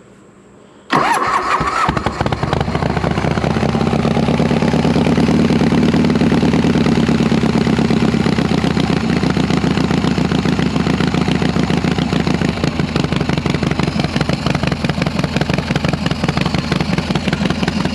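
Harley-Davidson V-twin with a freshly rebuilt S&S Super E carburetor starting about a second in, catching at once and settling into a steady idle with the enricher on. It runs through an exhaust with baffles set in it.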